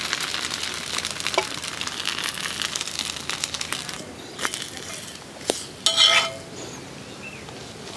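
Rice-and-moringa-leaf roti sizzling in oil on a hot tava, a dense fine crackle that dies down about halfway through. Then a metal spatula clinks on the tava: two sharp taps, and about six seconds in a brief ringing clatter, the loudest sound.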